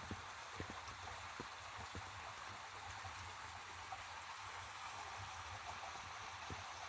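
Steady rush of flowing water, with scattered soft low pops at irregular intervals.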